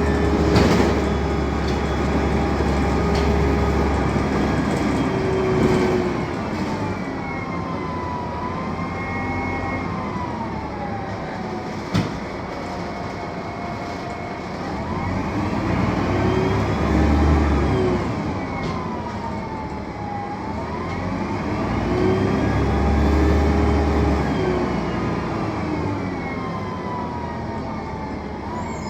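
Mercedes-Benz OM 906 LA six-cylinder turbodiesel and Voith automatic gearbox of a BredaMenarini M 240 LU city bus running under way, the engine and gearbox whine rising and falling in pitch about three times as the bus speeds up and slows. A single sharp click about twelve seconds in.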